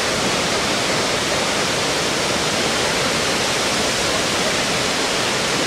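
Dzhuryn waterfall: the steady, dense rushing of a large volume of falling water.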